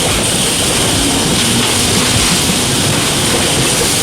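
Bumper cars running on the ride floor: a loud, steady rumble and rolling noise from the cars during the ride.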